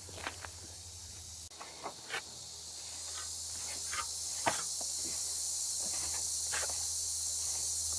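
A steady high-pitched hiss that grows louder about three seconds in, with scattered light knocks and clicks over it.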